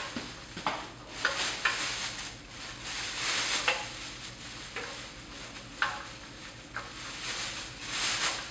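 Packaging being handled and pulled off a studio light: rustling and crinkling in uneven swells, with scattered sharp clicks.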